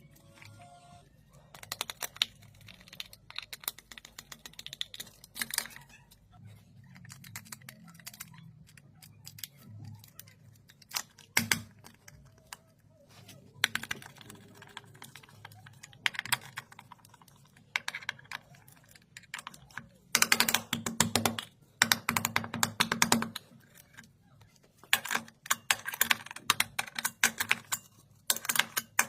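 Bursts of rapid mechanical clicking, each lasting a second to a few seconds, with the longest and loudest run about twenty seconds in.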